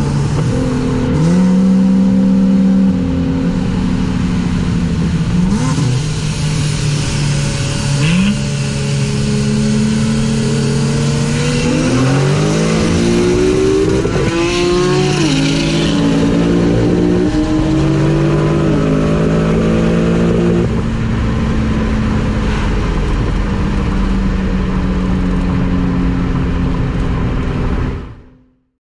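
Car engine and exhaust under load over wind and road noise: the engine note holds, climbs in revs about halfway through, and steps down several times. The sound fades out just before the end.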